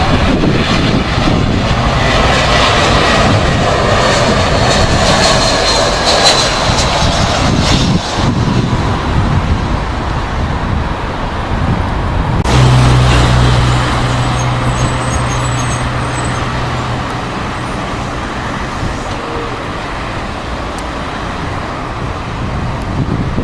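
Jet airliner engines running as an aircraft passes close by, a loud roar with a gliding whine that fades after about eight seconds. About halfway through the sound changes abruptly to a low steady hum under fading engine noise.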